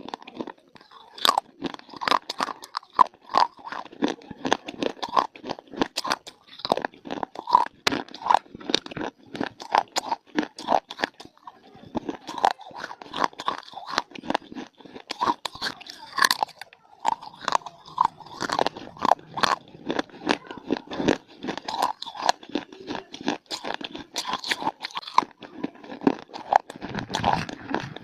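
Close-miked crunching and chewing of hard, brittle baked clay (mitti): dense sharp snaps and crackles, several a second, with no pause.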